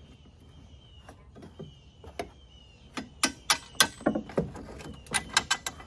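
Hand tools working loose the metal bolts of a post-hole digger: a run of sharp metal clicks and clinks, starting about three seconds in and coming faster near the end.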